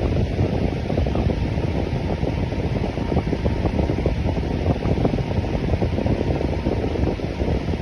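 Electric fan running steadily: a constant whoosh of moving air, heaviest in the low range, with no change in speed.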